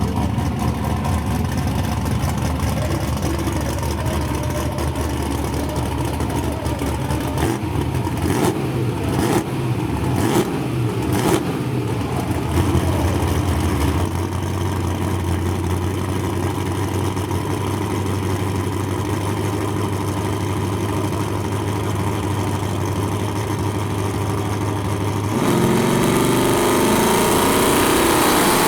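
Drag race car engines running at the track. They idle and blip with a series of sharp cracks, and about three-quarters through there is a sudden loud hit of throttle, the pitch rising as a car accelerates away.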